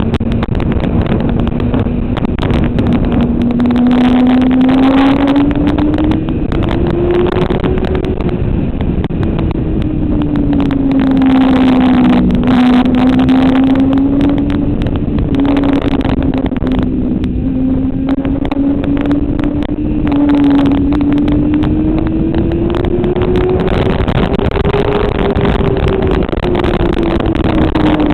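Motorcycle engine at speed, heard from on board. Its pitch rises and falls slowly as the bike speeds up and slows down, over a steady rushing noise.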